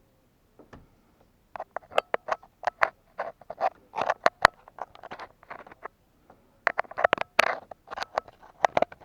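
Irregular close-up clicks, scrapes and rustles, starting about a second and a half in, with a short pause a little past the middle.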